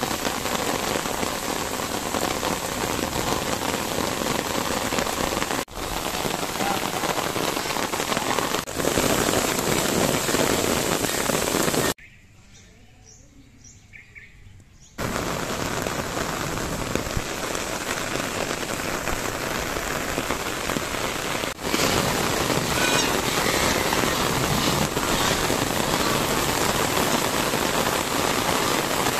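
Steady rain falling, a dense even hiss of drops. It drops away for about three seconds near the middle, then returns.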